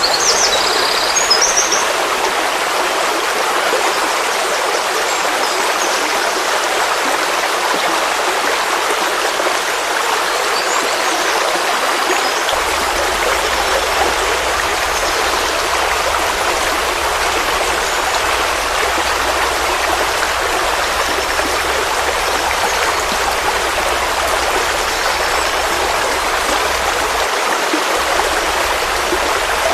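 Forest stream flowing: a steady, even rush of running water. A few brief high chirps sound right at the start.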